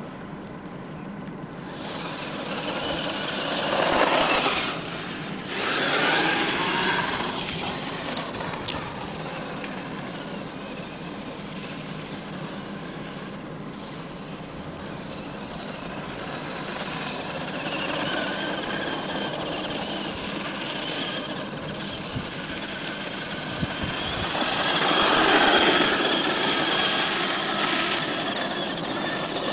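Traxxas E-Maxx radio-controlled monster truck driving, its electric motors and gears whining, rising and falling in pitch with the throttle, with strong bursts of acceleration at about four seconds, six seconds and again near twenty-five seconds.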